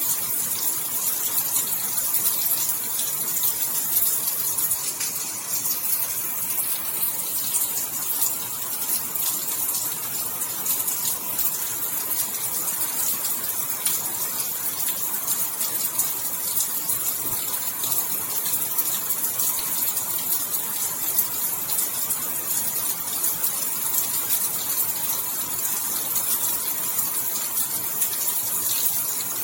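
Steady, heavy rainfall: a dense hiss of countless drops with fine patter throughout.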